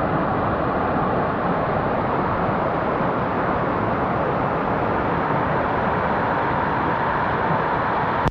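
Steady rushing of a waterfall, an even, unbroken noise that cuts off suddenly at the end.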